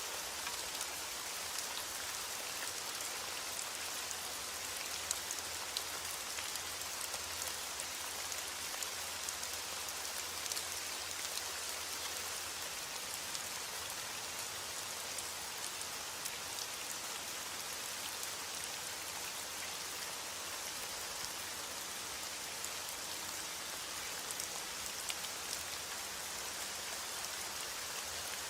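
Steady rain falling on a surface, a continuous hiss scattered with many sharp individual drop ticks. No thunder.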